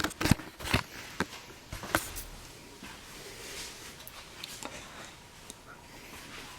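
Handling noise: a handful of sharp clicks and taps in the first two seconds, then quiet room tone with a few faint ticks.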